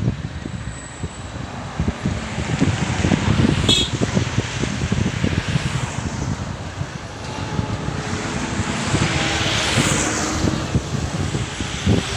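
Heavy excavator's diesel engine running with a continuous rumble, a hiss swelling and fading about two-thirds of the way through.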